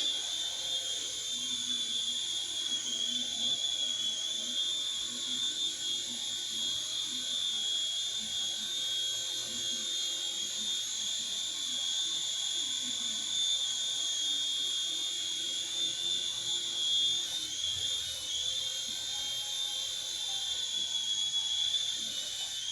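Mini helicopter's small motor and rotor running with a steady high whine, the pitch dipping briefly and recovering near the end.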